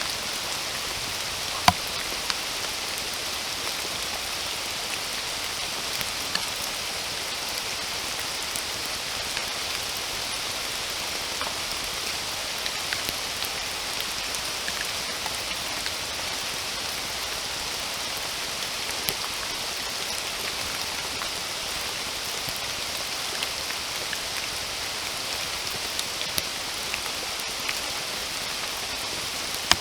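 Steady rain falling in a forest, a constant even hiss with scattered individual drops striking close by, the sharpest a little under two seconds in.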